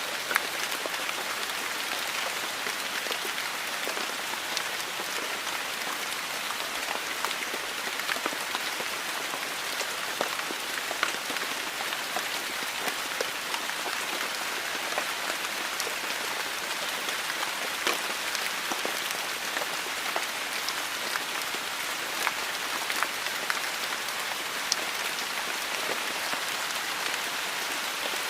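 Steady monsoon rain falling, a continuous hiss with many separate drops ticking and splashing on surfaces.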